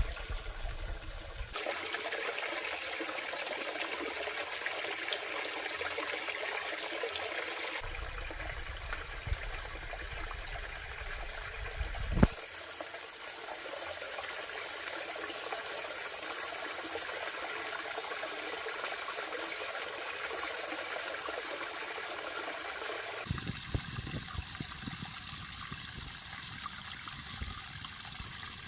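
Steady rushing noise of running water, changing abruptly a few times, with a single sharp thump about twelve seconds in.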